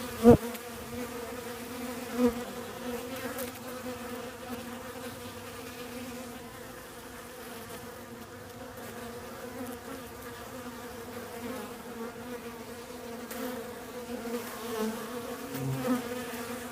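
Steady hum of honey bees and yellow jackets buzzing and fighting at the entrance of a hive being robbed. A short, loud thump comes about a third of a second in.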